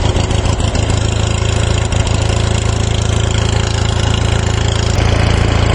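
Ford 6.9L International V8 diesel idling cold after a two-month cold start, running steadily with an even firing pulse; about five seconds in its note steps up and gets a little louder.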